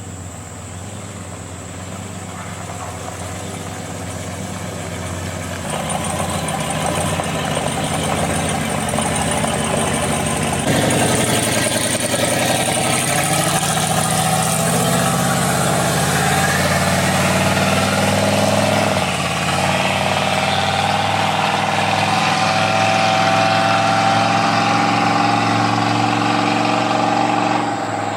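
A vehicle engine running steadily, growing louder over the first ten seconds or so and then holding, with a faint whine that rises slightly near the end.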